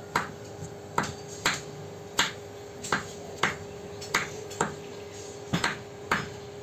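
Hammer striking metal in forging: about a dozen sharp strikes, unevenly spaced at roughly two a second, each with a brief ring, over a faint steady hum.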